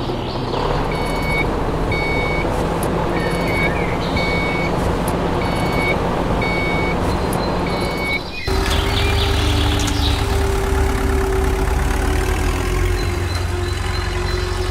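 A vehicle's reversing alarm beeping steadily, about once every three-quarters of a second, over a running engine. A little over 8 seconds in, the sound cuts abruptly to a different, lower engine running steadily without beeps.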